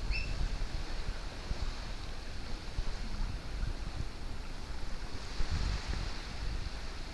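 Ocean surf washing on a beach, with wind buffeting the microphone in low rumbles. A brief high chirp sounds right at the start.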